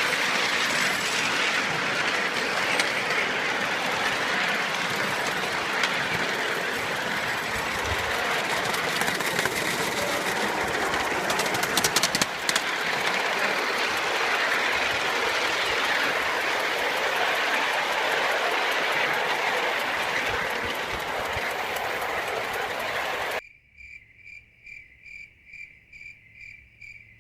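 Ride-on live-steam train running along the track: a steady rolling rush with a quick cluster of clicks about halfway through. About 23 seconds in it cuts off suddenly, leaving crickets chirping in a fast, even rhythm.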